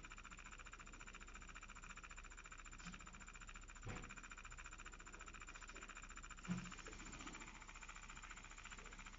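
3D pen's small feed motor running steadily, a faint rapid buzz as it pushes plastic filament through the hot nozzle. A couple of soft knocks about four and six and a half seconds in.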